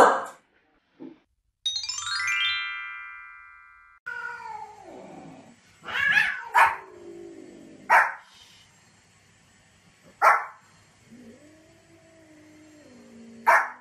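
A short chiming transition sound, then a Pomeranian barking in about five sharp single barks while a cat answers with long, drawn-out, wavering meows.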